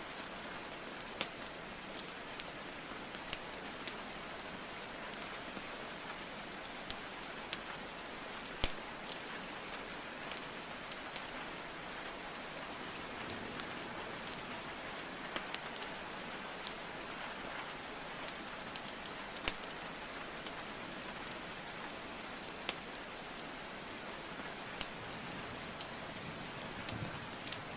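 Steady rain hiss with irregular sharp pops and crackles of burning wood in a fireplace, one louder pop about a third of the way through.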